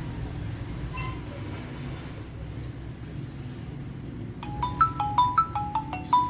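A steady low hum, then about four and a half seconds in a mobile phone's loudspeaker starts playing a quick marimba-like ringtone melody of bright, chiming notes, showing the Redmi Note 9's sound working again.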